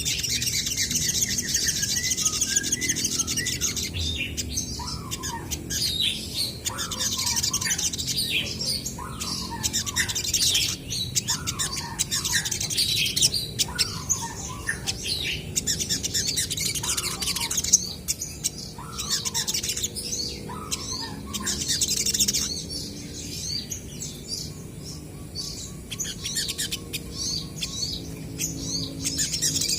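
Olive-backed sunbirds calling back and forth in rapid high-pitched chirps and twitters. Through the middle, a lower short falling note repeats about every second and a half.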